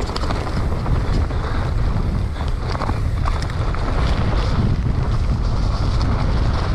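Wind buffeting the camera microphone of a mountain bike rider on the move, a dense low rumble, with scattered clicks and knocks from the bike rattling over rough ground.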